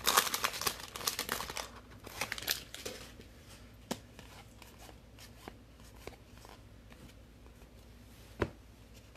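A trading-card pack wrapper being torn open and crinkled for about the first two seconds, then the cards handled quietly, with a few sharp taps.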